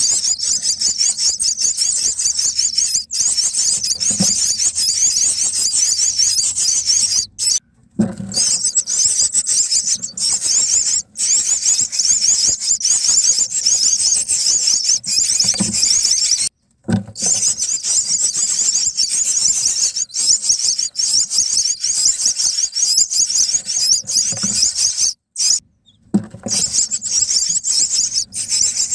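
Common myna nestlings begging in the nest: a rapid, continuous high-pitched rasping chatter, breaking off briefly three times.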